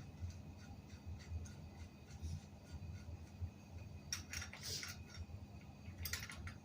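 Small metal tools or bicycle parts clinking and rattling lightly as they are handled, in two short clusters about four and six seconds in, over a low steady hum.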